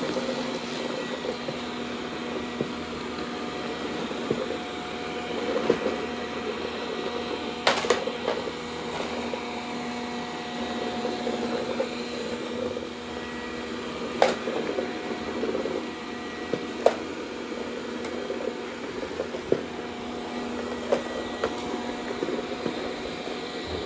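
Dreame D10 robot vacuum running steadily, its motor whirring, with a few sharp clicks about 8, 14 and 17 seconds in.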